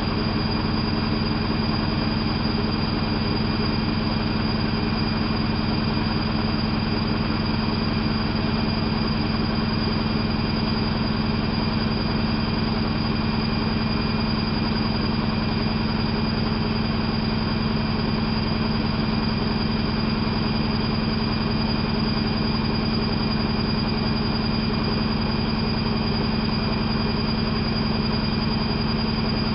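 Bauknecht WAP 6460 washing machine running steadily: a constant motor hum with a high whine above it and no pauses or changes.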